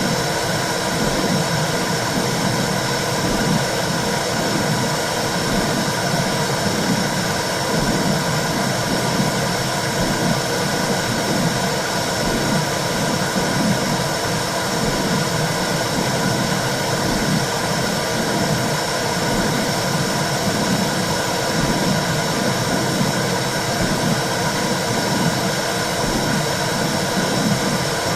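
Womb sound for soothing a baby: a steady hiss of noise with a low, rhythmic whooshing pulse underneath.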